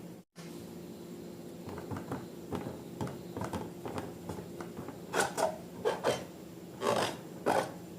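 Slime being worked by hand: irregular wet rubbing and squishing strokes begin a couple of seconds in and grow louder in the second half, over a steady hum.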